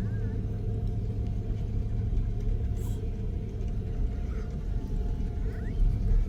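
Steady low rumble of a vehicle heard from inside, with an even hum running under it. Faint brief voice sounds come in twice, late on.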